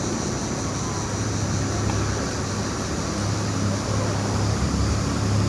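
A motor vehicle's engine running with a steady low hum, and a steady high-pitched hiss above it.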